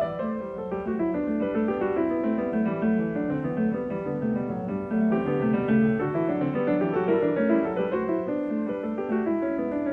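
Background piano music, a steady run of quick notes.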